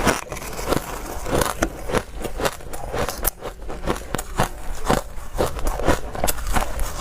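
Dry, hard ice being bitten and chewed up close, a quick irregular run of sharp crunching cracks several times a second.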